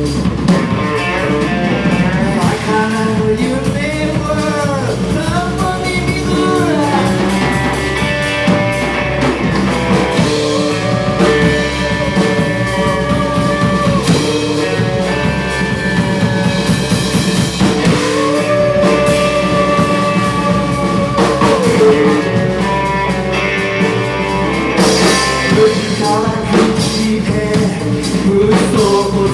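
Live rock band song: a singer over guitar and drum kit, played steadily throughout.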